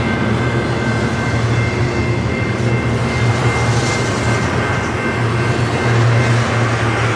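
Double-stack intermodal freight cars rolling past at close range: a steady, loud rumble of wheels on rail that swells and eases as the cars go by, with faint steady high-pitched ringing above it.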